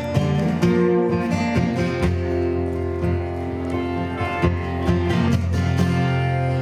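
Acoustic guitar strumming chords, playing the instrumental intro to the song before the vocals come in.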